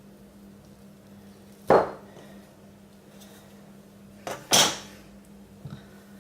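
Two sharp knocks from a criss-cross soap cutter striking the cutting surface as it is pressed through a block of curd soap, the second preceded by a faint click, with a light tap near the end.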